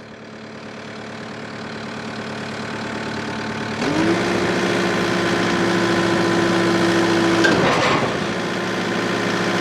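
Diesel engine of a Takeuchi TL8 compact track loader growing louder. About four seconds in it revs up to a steady, higher note as it works its hydraulics to lift a heavy load on its forks. The note dips briefly near the eight-second mark and then holds again.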